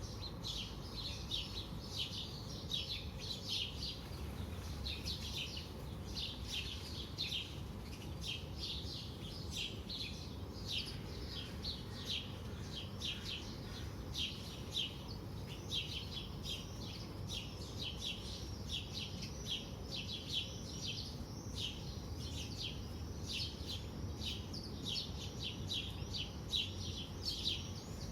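Morning birdsong: many birds chirping at once, a dense run of short high chirps repeated without a break. A low steady rumble lies underneath.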